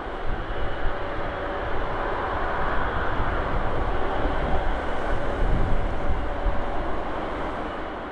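Jet airliner engines running as an aircraft passes: a rushing noise with a faint steady whine that swells through the middle and eases off near the end.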